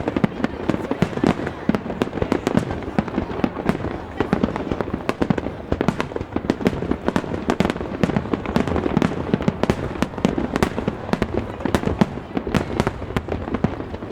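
Aerial fireworks going off in a rapid, unbroken barrage of overlapping bangs.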